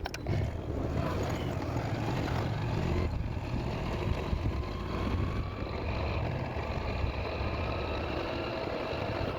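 Road vehicle on the move: a steady engine and road rumble, with a faint whine that slowly rises in pitch.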